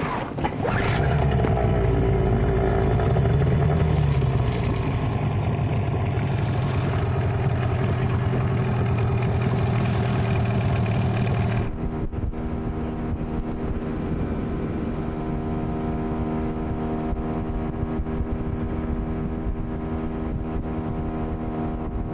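Outboard motor, a Hidea 9.9, running as the boat moves off. About twelve seconds in the sound changes abruptly to a different steady engine note with evenly spaced tones.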